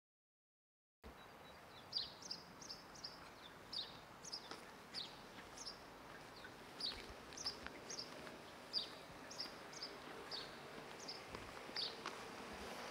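Silence for about the first second, then a small bird calling in short, high, falling chirps, one or two a second, over faint outdoor background noise.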